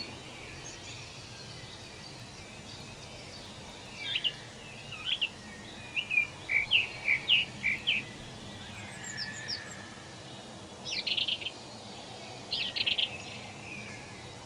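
Songbirds chirping in short quick phrases over a steady low outdoor hiss, busiest in the middle and again twice near the end.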